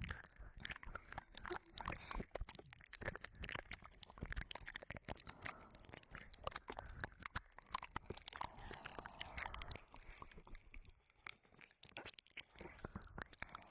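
Close-up ear-licking and mouth sounds on a 3Dio binaural microphone: wet tongue licks, lip smacks and clicks in quick, irregular succession, with soft breathy noise between them.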